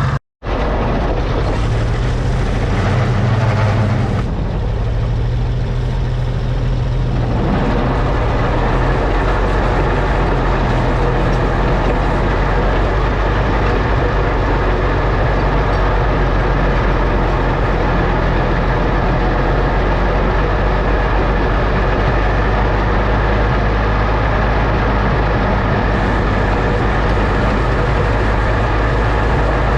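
Oliver OC-6 crawler tractor's engine running steadily, with a short dropout just after the start and a change in engine note about four to seven seconds in.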